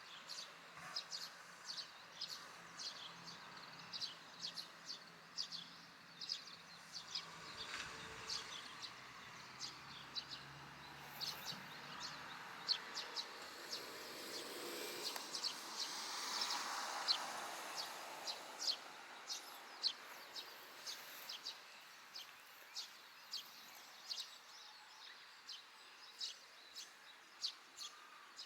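Eurasian tree sparrow chirping: short, high chirps repeated about twice a second over faint outdoor background noise. A broad swell of noise rises and fades around the middle.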